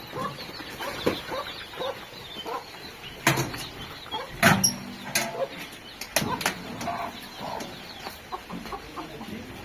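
Chickens clucking in short repeated calls, with three sharp knocks, the loudest about four and a half seconds in.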